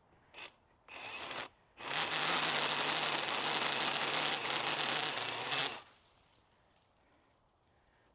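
Pole saw cutting into a tree branch: two short bursts, then about four seconds of steady cutting that stops suddenly.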